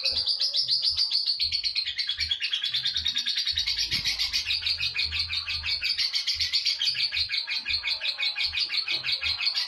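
Lovebird giving a long 'ngekek' song: a fast, unbroken chattering trill of high notes, about ten a second, kept up without a pause.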